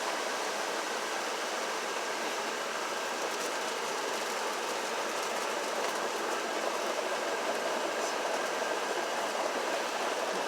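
Automatic car wash working over the car, heard from inside the closed cabin: a steady rushing noise of water and machinery on the bodywork.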